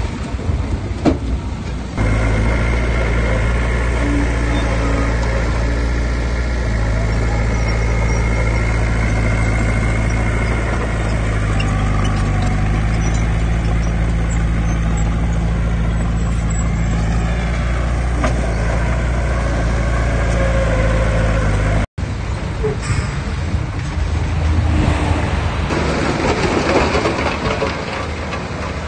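Heavy earthmoving machine's diesel engine running steadily, a low hum whose pitch shifts slightly now and then. About 22 seconds in it cuts off abruptly, and a rougher, noisier engine sound follows.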